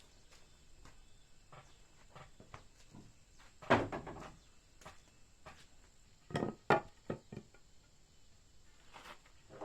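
A few knocks and thuds with faint clicks between them: one loud knock about a third of the way in, and two more close together about two-thirds in.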